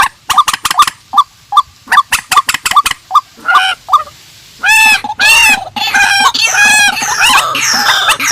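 Calls of purple swamphen and white-breasted waterhen. First comes a run of short, clipped notes, about three a second. After a short lull about four seconds in, loud, longer arching calls follow in quick series.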